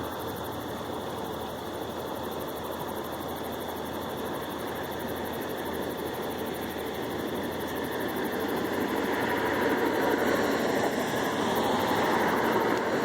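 Aircraft engine noise: a steady roar that grows louder over the last few seconds as the plane approaches.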